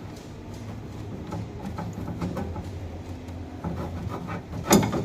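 Scattered light clicks and knocks of things being handled, over a steady low hum, with one sharp loud knock near the end.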